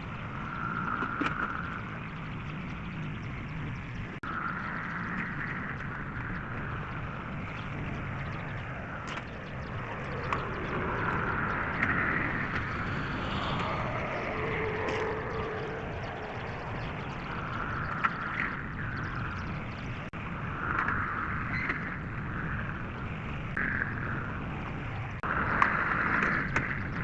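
Tractor engine running while working a rear box blade through the feedlot, a steady low rumble with a whine that swells and fades every few seconds as the load changes, plus occasional knocks.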